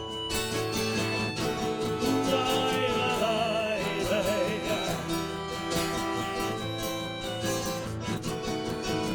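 Band playing an instrumental break in a song, led by guitars. A wavering lead melody rises over the strumming in the middle.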